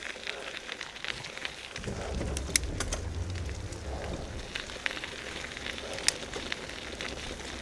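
Crackling rolling noise of a bicycle ridden on a rough forest path, with scattered sharp clicks and knocks. A low wind rumble joins about two seconds in and fades after a few seconds.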